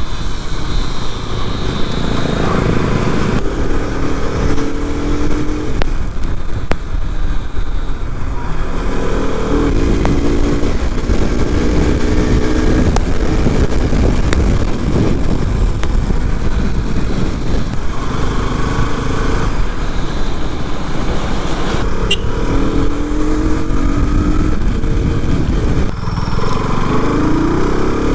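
KTM RC 200's single-cylinder engine under way, revving up several times as it pulls through the gears, over a steady low rumble.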